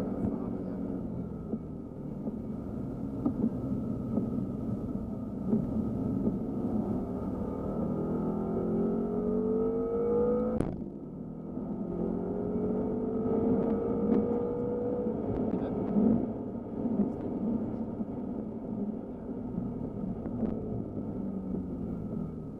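BMW M5 F10's twin-turbo V8 heard from inside the cabin, climbing in pitch under acceleration. About ten seconds in there is a sharp upshift, after which it pulls up through the next gear again and then settles lower.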